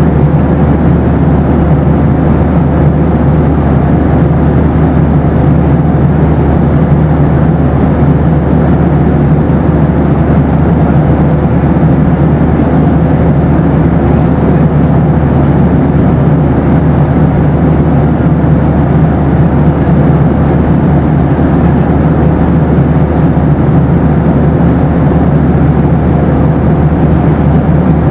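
Steady cabin noise of a Boeing 737 airliner in flight: a constant, even rush of engine and airflow noise with a low hum and a faint steady tone, unchanging throughout.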